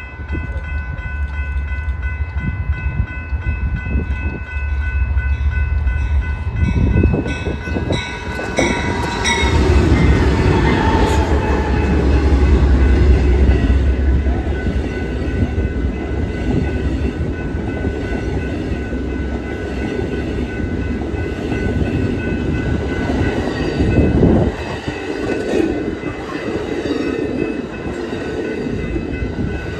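Amtrak diesel passenger train passing. The horn sounds as it approaches and drops in pitch as the locomotive goes by, about ten seconds in, over a deep engine rumble. The cars then roll past with steady wheel and rail noise.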